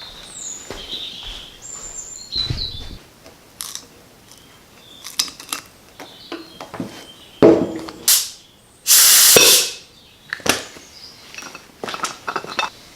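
Birds chirping, then scattered clicks and knocks of hand work and a loud spraying hiss lasting under a second about nine seconds in.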